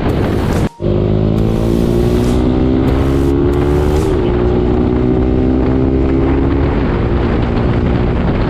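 KTM Duke 250's single-cylinder engine running hard while riding, its pitch rising steadily for about three seconds as it accelerates, then holding fairly steady. Wind rushes across the microphone, and the sound breaks off for an instant about a second in.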